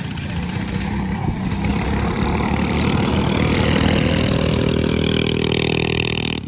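Mini bike engine running hard, growing louder as it comes closer, with its pitch creeping up, then cutting off suddenly.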